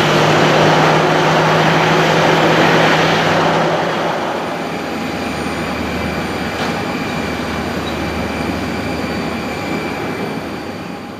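CFM56 jet engines of a Boeing 737-800 running at taxi power: a loud steady rush that drops to a lower level about four seconds in and carries on with a faint steady whine and low hum.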